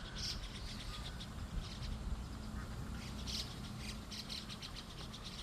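Birds calling in short bouts of rapid chattering notes, several times over, with a steady low rumble underneath.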